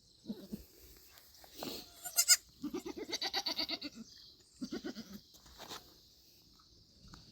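Pygmy goats bleating: several short bleats and one long quavering bleat of about a second and a half in the middle.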